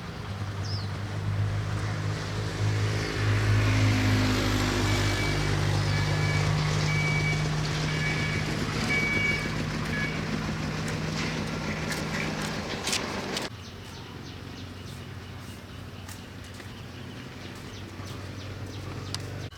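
A motor vehicle engine running with a steady low hum. It cuts off suddenly about two-thirds of the way through, leaving a quieter, even background noise.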